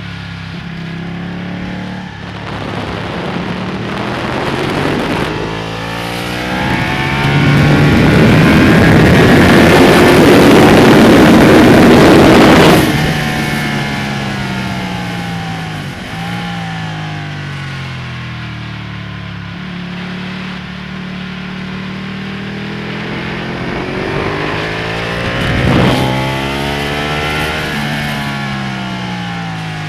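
Ducati Panigale's V-twin engine heard from on board at speed, climbing in pitch through several gear changes with heavy wind rush at its loudest. About thirteen seconds in the throttle shuts and the note falls away sharply. It then climbs again through more gear changes.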